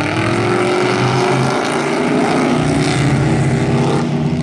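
Several race trucks' engines running hard together under full throttle on a restart, their overlapping pitches rising as they accelerate.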